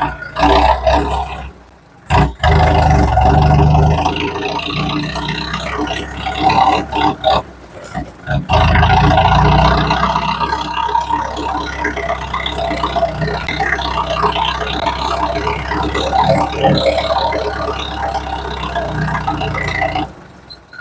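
Tractor engine running loud, heard in several short clips cut together with abrupt breaks.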